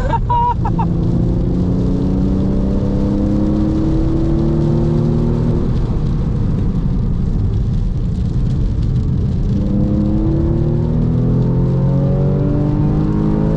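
Porsche 996.2 Carrera's 3.6-litre flat-six, with a valved sport muffler, heard from the cabin under hard acceleration: the engine note climbs for several seconds, drops away as the driver lifts off, then climbs again through the gears near the end. A steady rush of road and tyre noise runs under it.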